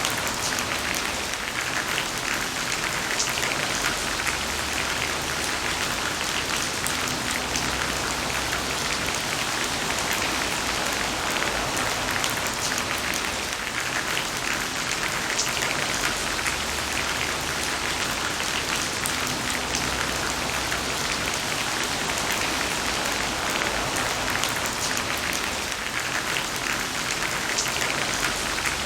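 Heavy rain falling steadily: a dense, even hiss of many small drop impacts, with a faint low rumble underneath.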